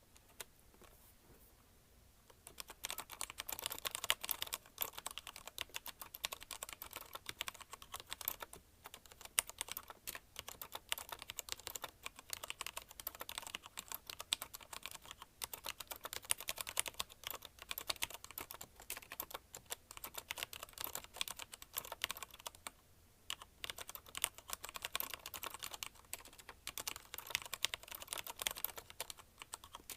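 Fast touch-typing on a CM Storm Quick Fire TK mechanical keyboard with linear Cherry MX Red switches: a dense, rapid clatter of keystrokes. It starts after a pause of about two and a half seconds and breaks off briefly twice.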